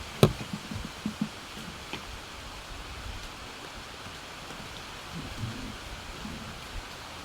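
Steady hiss of falling rain, with a sharp knock just after the start and a few lighter knocks over the next second or so.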